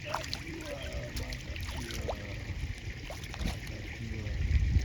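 River water sloshing and trickling close to the microphone, with scattered small clicks and a low rumble that swells near the end.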